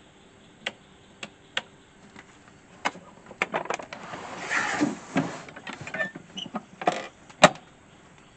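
Scattered clicks, knocks and clatter of coffee-making gear being handled, with a busier stretch of rustling and clinking in the middle and one sharp knock near the end.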